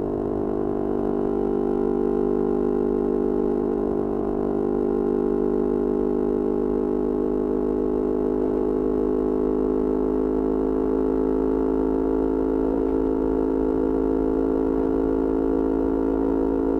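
Yamaha R25 parallel-twin engine running at a steady speed through a Kea Speed aftermarket exhaust, giving an even, unchanging drone.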